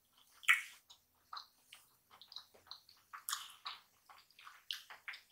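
Close-miked wet chewing with mouth closed: irregular soft smacks and clicks of a mouthful of food, the loudest about half a second in.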